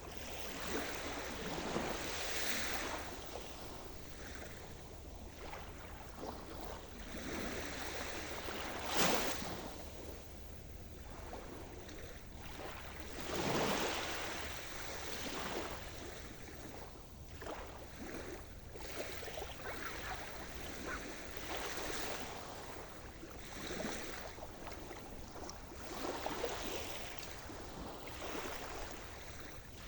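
Sea surf: waves breaking and washing in at irregular intervals, with the loudest breaks about nine and thirteen seconds in.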